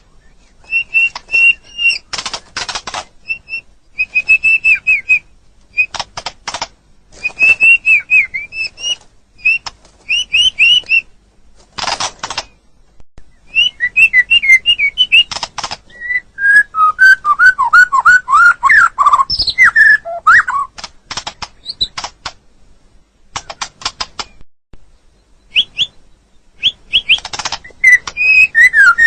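White-rumped shama singing a varied song: short phrases of clear whistled notes mixed with quick harsh clicking notes, with brief pauses between phrases. About halfway through comes a longer run of lower, gliding whistles.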